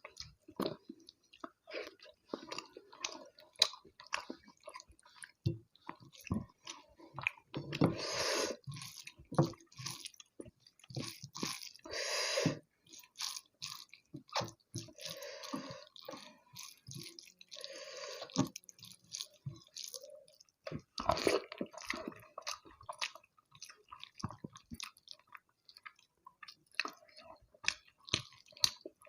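Close-miked eating sounds of a person chewing rice with egg curry and fish curry: a steady run of short wet mouth clicks and chewing, broken by a few longer, louder stretches.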